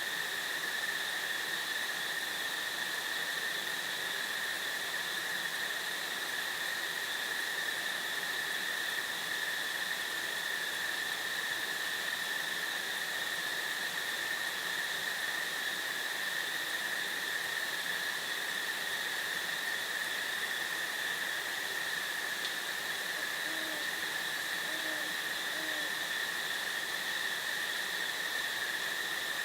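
A steady, unbroken high-pitched insect trill, with three short, low owl hoots about a second apart near the end.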